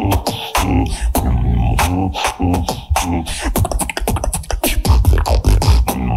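Solo beatboxing: deep kick-and-bass tones under sharp snare and hi-hat clicks, with a fast run of rapid clicks about four seconds in.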